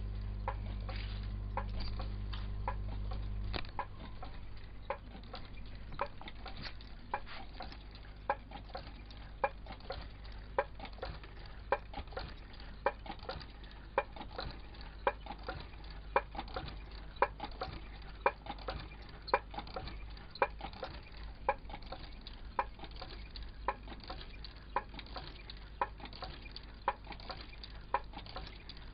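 Homemade large-flywheel Stirling engine running slowly, a sharp knock or click about once a second with fainter clicks between, one beat per turn of the flywheel. A steady low hum is heard at first and cuts off suddenly about three and a half seconds in.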